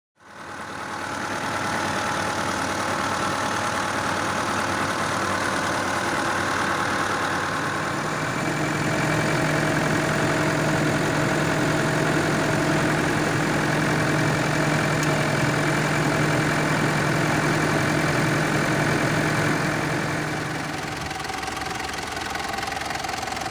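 Mitsubishi 4M41 four-cylinder turbodiesel engine idling steadily. About eight seconds in it grows a little louder with a steady hum, and near the end it drops somewhat quieter.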